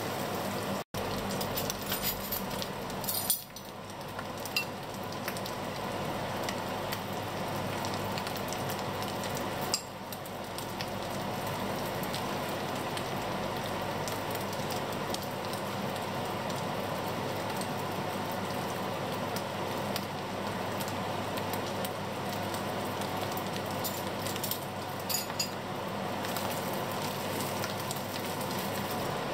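Shredded dried fish frying in oil in a stainless steel pan: a steady sizzle, with a wooden spatula stirring it and a few light clicks and knocks.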